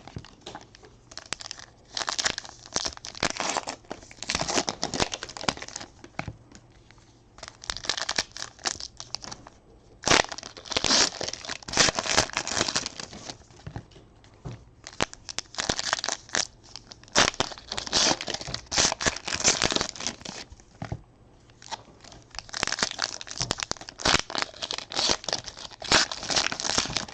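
Packs of 2019 Donruss baseball cards being torn open and their wrappers crumpled, the cards handled in between. It comes as irregular bursts of crinkling and tearing with short pauses.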